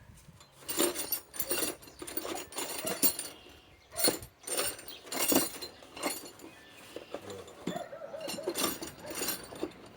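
Small metal hardware clinking and rattling as it is handled: lag screws and sockets knocking together in irregular clicks.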